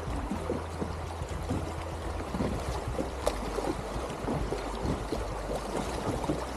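River water splashing and gurgling around a kayak, with a steady low rumble and scattered small irregular splashes and knocks, one sharper knock about three seconds in.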